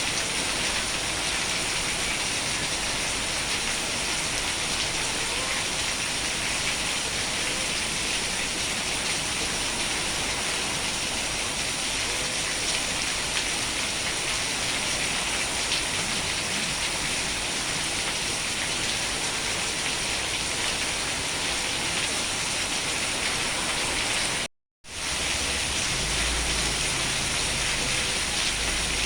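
Steady, dense rain falling, with a hiss of drops on surfaces. It cuts out for a moment near the end, then comes back with a low rumble underneath.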